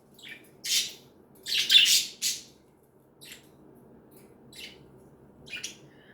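Pet budgerigars chirping and squawking in short, scratchy calls, a busy cluster in the first two seconds, then sparser and fainter ones.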